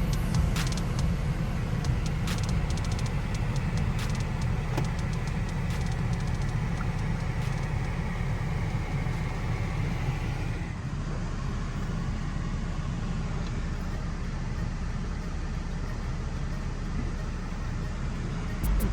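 Automatic car wash heard from inside the car's cabin: a steady low rumble of the machinery, with water and brushes hissing and ticking against the car. About eleven seconds in the hiss drops away and mostly the low rumble remains.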